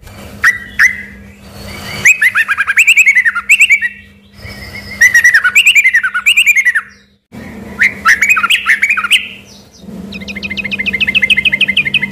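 Yellow-vented bulbul (trucukan) singing loud, fast phrases of quick rising and falling notes, a couple of seconds each with short pauses between, in the shama-like style its keepers call gacor; the last phrase is a rapid, even trill of repeated notes.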